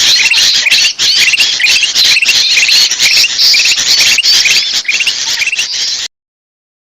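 Bulbuls giving noisy, agitated chattering calls in quick repeated bursts, about two a second. This is a bird-lure recording that mixes sooty-headed bulbul (kutilang) with kutilang emas, used to draw small birds in. The calls cut off abruptly about six seconds in.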